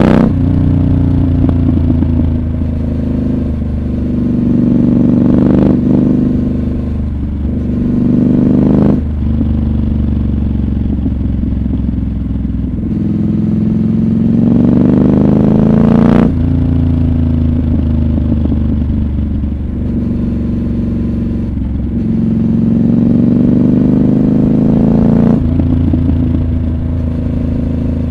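Triumph Scrambler 1200 XC's 1200 cc parallel-twin engine under way, its note climbing under throttle and dropping sharply about four times as the rider shifts or rolls off.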